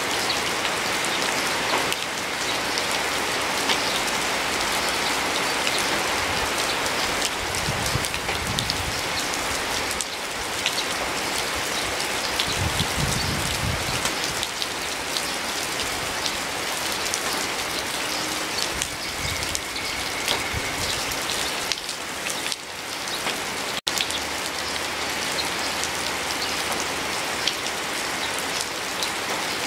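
Steady rain, a dense even hiss with many individual drops ticking through it. Two brief low rumbles come about a quarter and about halfway through, and the sound cuts out for an instant about two-thirds of the way in.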